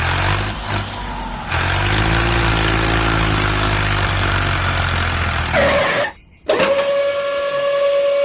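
A motor running with a low hum and a noisy whir, stopping abruptly about six seconds in; after a brief silence, a steady whistle-like tone starts and holds.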